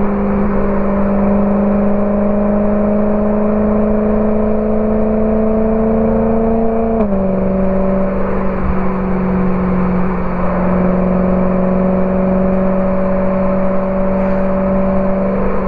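BMW E92 M3's V8 engine through a Borla ATAK exhaust, running at a steady cruise with a drone that climbs slowly in pitch. About seven seconds in the pitch drops a little, then holds steady.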